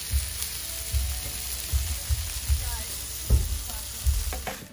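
Burger patties and asparagus frying on a cast-iron flat-top griddle: a steady sizzling hiss, with a series of low thumps about every half second.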